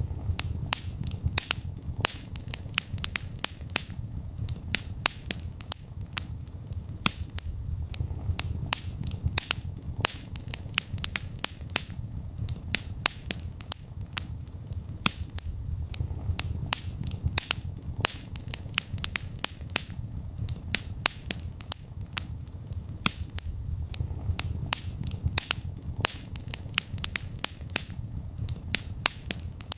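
Wood fire burning in a fireplace: dense, irregular sharp crackles and pops over a steady low rumble of the flames.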